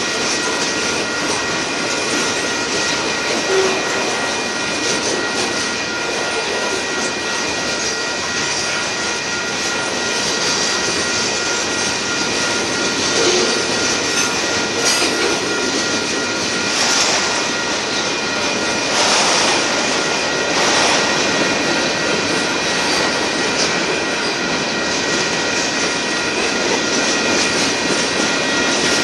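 Freight cars of a Union Pacific manifest train rolling past, a steady rumble and clatter of steel wheels on rail, with a few steady high-pitched tones running through it and brief louder swells around the middle.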